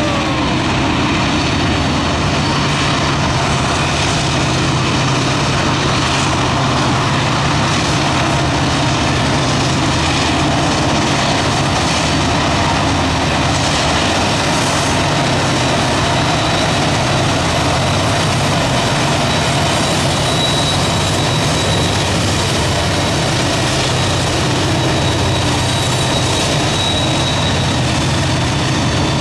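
Norfolk Southern freight train passing close by: diesel-electric locomotives running with a steady low drone over the rumble of heavy rail cars rolling on the curve. In the later part a thin, high wheel-flange squeal comes in.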